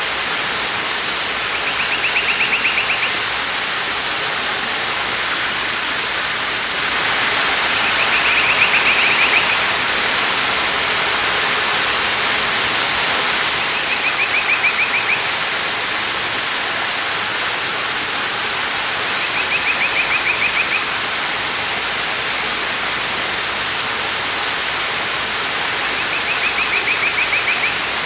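Waterfall rushing steadily, a little louder for several seconds in the middle. Over it a short, rapidly pulsing trill sounds five times, about six seconds apart.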